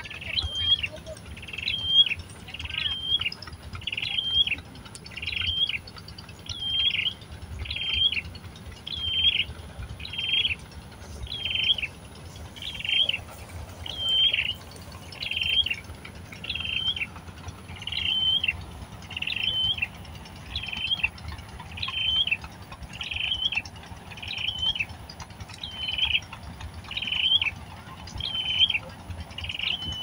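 A bird's short high chirp, rising then falling, repeated steadily a little more than once a second.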